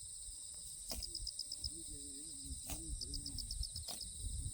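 Horses grazing: a few sharp crunches of grass being torn and chewed, over steady, trilling insects.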